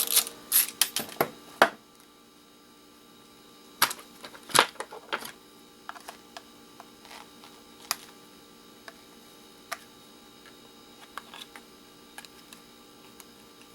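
Plastic clicks and knocks of a Nintendo Wii power supply's casing being worked open with a screwdriver: a quick cluster of sharp taps in the first two seconds, a few louder knocks around four to five seconds in, then scattered light clicks.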